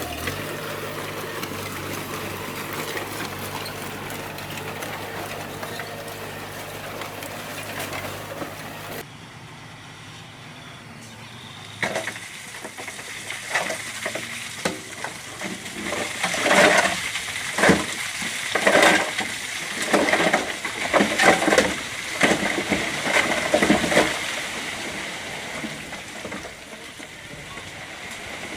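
Bulldozer's diesel engine running steadily. About nine seconds in the sound cuts to something quieter, followed by a run of loud, irregular bursts, roughly one or two a second, strongest in the second half.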